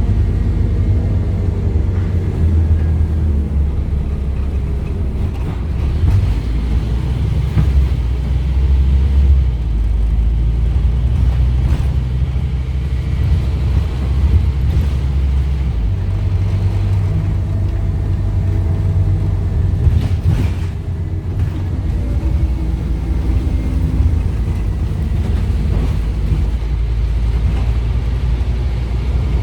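Scania DC9 five-cylinder diesel of a Scania N230UD OmniCity double-decker bus running under way, its low rumble rising and falling as the bus pulls away and eases off through its ZF Ecomat automatic gearbox. A brief knock about twenty seconds in.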